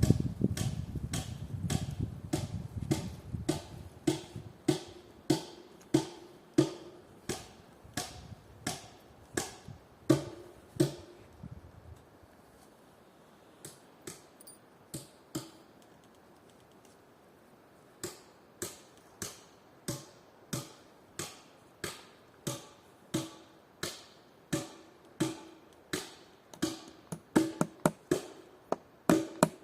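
Hammer driving nails into wood: a steady run of sharp strikes, about one and a half a second, each with a short ringing tone. The hammering pauses for several seconds midway, then resumes and quickens near the end.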